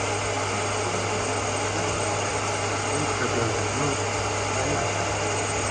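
Workshop machinery running steadily: an even mechanical noise over a constant low hum, with faint voices underneath.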